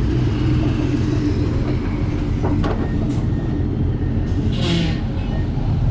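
Heavy diesel truck engine running steadily with a deep rumble, and a short burst of hissing about four and a half seconds in.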